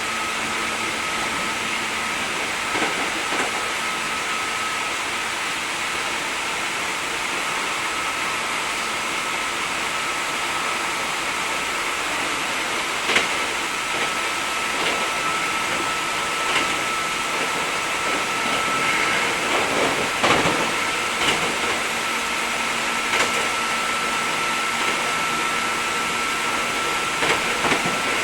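Hankyu 3300 series electric train heard from inside the car, running at a steady speed: continuous rolling and running noise with a constant whine, and scattered clicks and knocks from the wheels passing over the track.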